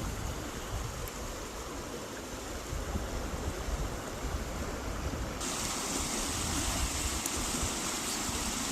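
Stream water rushing in a steady hiss, with low rumble underneath. About five seconds in, the hiss abruptly becomes louder and brighter.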